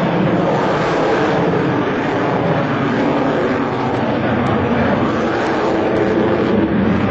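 Aircraft flying in a display, its engine noise steady and loud.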